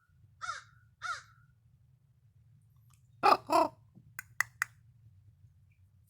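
Crow cawing: two short, fainter caws falling in pitch, then two loud caws about three seconds in, followed by three quick sharp clicks.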